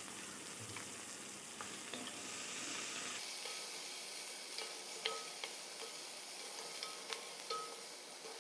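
Chopped onion and curry leaves sizzling in hot coconut oil in a pan, with a spoon stirring and a few light clicks of the spoon against the pan. The sizzle turns brighter about three seconds in.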